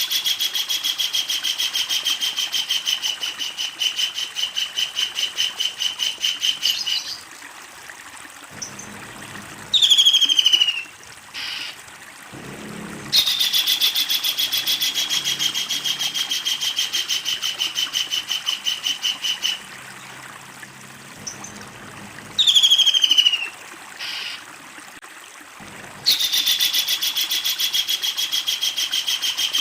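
A kingfisher giving long, rapid rattling calls. Each run lasts several seconds, starting a little higher and settling to an even pitch, and there are three such runs. Between them come two short, loud bursts of a few sharp falling notes.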